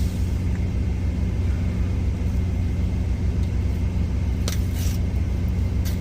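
Steady low hum of an idling semi-truck engine, with two short sharp crackles near the end.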